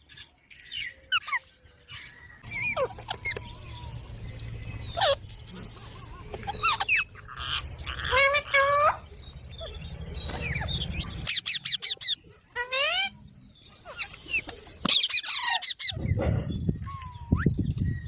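Pet Indian ringneck parakeet chirping and squawking in quick runs of short calls, many sliding up or down in pitch, with the loudest clusters in the middle and near the end. A low rumble sits under much of it.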